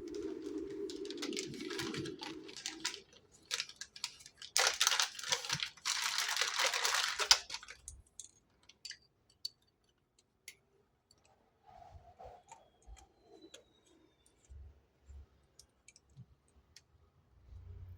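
Packaging being torn open and crinkled, loudest from about four to eight seconds in, followed by scattered small clicks and light handling noises.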